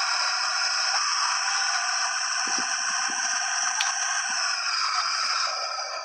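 A steady rushing noise, all in the upper range with no low rumble, dipping briefly near the end.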